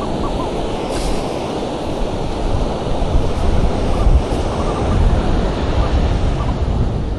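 Rough ocean surf breaking and washing up the beach, with wind rumbling on the microphone and a few faint short beeps.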